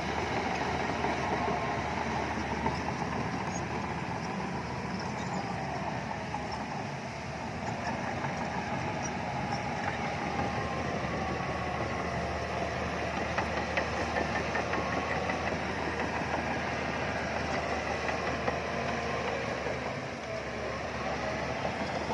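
Diesel engine of heavy earthmoving machinery running steadily, with a faint intermittent clatter.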